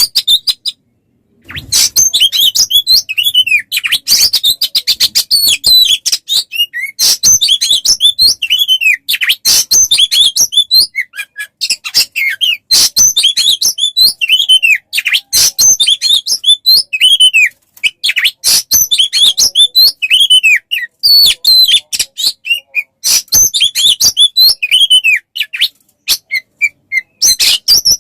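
Songbird masteran (tutor recording for training a magpie-robin): fast, unbroken birdsong of rapid chips and clicks mixed with many short whistles that slide down in pitch. It pauses briefly about a second in.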